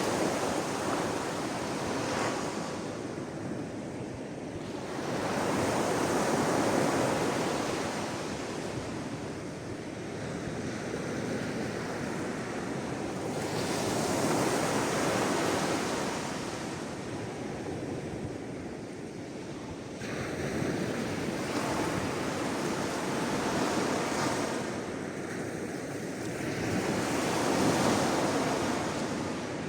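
Sea waves breaking and washing on the shore, the surf swelling and fading about every seven seconds.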